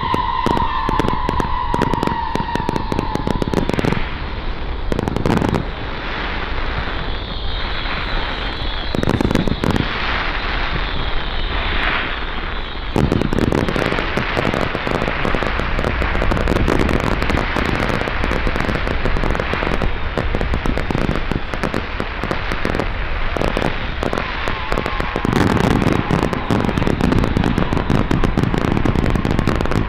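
Fireworks going off: continuous rapid crackling and popping, growing denser about halfway through. A steady high tone is heard over the crackle in the first few seconds and fades out.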